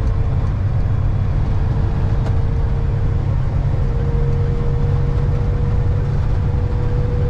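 Truck engine and road noise heard from inside the cab while driving: a steady low rumble with a faint steady whine over it that creeps slightly up in pitch.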